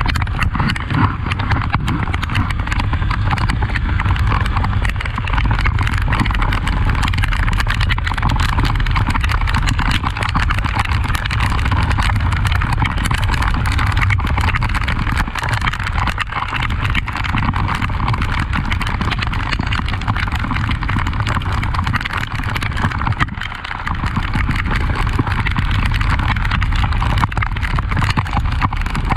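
Honda XRE 300 motorcycle's single-cylinder engine running steadily while riding off-road in rain, under a dense, irregular clicking and knocking. The sound dips briefly about three-quarters of the way through.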